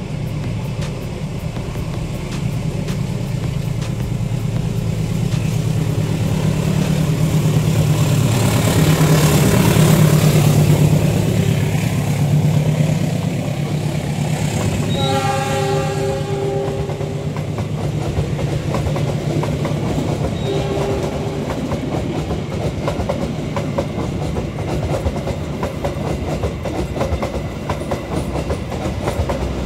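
Indonesian diesel-electric passenger train passing close by: the locomotive's deep engine drone swells to its loudest about a third of the way in, then the carriages' wheels clatter steadily over the rails. A horn-like chord sounds for about two seconds around the middle, and briefly again a few seconds later.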